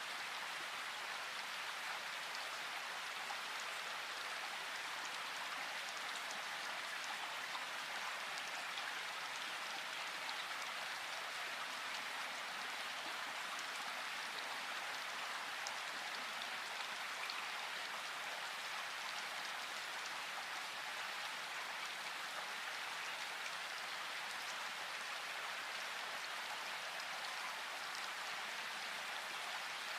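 Steady rain falling, an even patter of many drops with no pause or change in strength.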